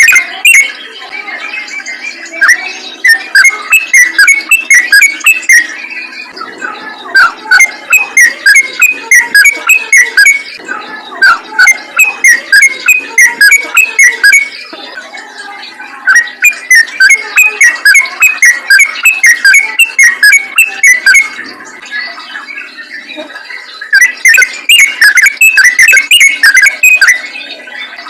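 Yellow-vented bulbul (trucukan) singing in long, rapid runs of bright chirping notes, several notes a second. The runs come in bursts of a few seconds separated by short pauses.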